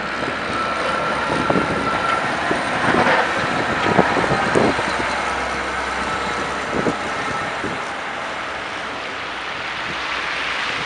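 Street traffic in a snowstorm: vehicles running by, with wind gusting on the microphone and a few sharp knocks in the first half.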